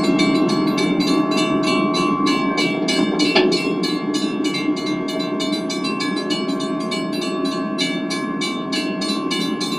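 Lionel O gauge model diesel train running: a steady whine with fast, even clicking, about five clicks a second.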